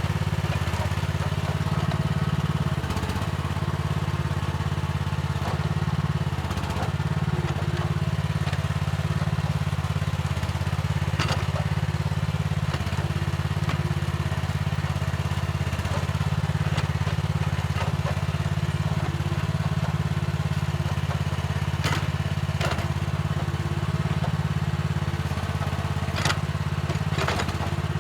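Mini excavator's diesel engine running steadily while it digs, with a few sharp knocks and clatters scattered through, the loudest near the end.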